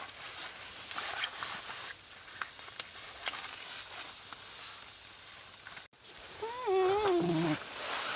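Light crackling of scattered clicks, then after a break a small dog whining in a wavering, gliding pitch for about a second near the end.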